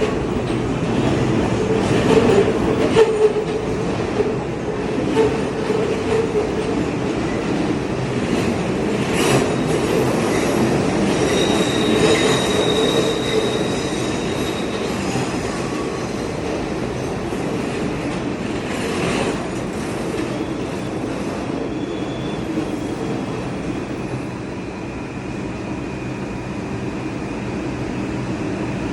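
New York City subway train running through the station: a steady rumble of wheels on rail with a few sharp clanks. A high-pitched wheel squeal comes in around the middle, and a fainter steady whine follows near the end.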